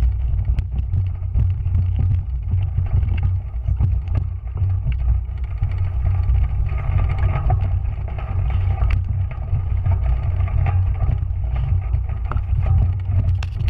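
Wind buffeting a GoPro Hero 3+ camera's microphone as the bike moves, a loud steady low rumble, with scattered small clicks and rattles.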